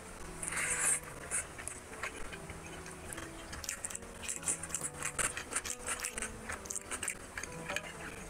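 Close-miked eating sounds of a man eating rice and curry by hand. There is a loud wet mouthful about half a second in, then a run of crisp crunching clicks from about the middle on as he bites raw onion slices. Soft background music plays under it.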